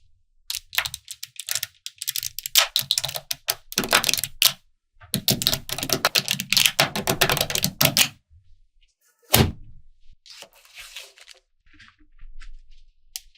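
Small magnetic balls clicking and clattering as they snap together, in quick dense runs of clicks, with one sharp snap about nine seconds in and a few fainter clicks after it.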